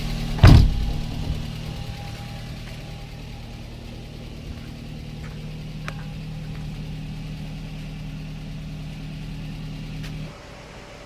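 Rebuilt Daihatsu Gran Max 1.3-litre four-cylinder engine running at idle with a steady low hum, after a single loud knock about half a second in. About ten seconds in, part of the hum cuts off suddenly and a quieter steady hum carries on.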